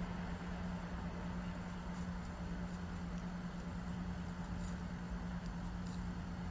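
Steady low hum under an even background noise, with a few faint, short high ticks now and then.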